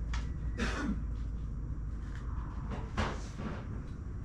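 A few separate knocks and rattles as a riding mower's hood is handled and set down, the loudest about half a second in and another about three seconds in, over a steady low hum.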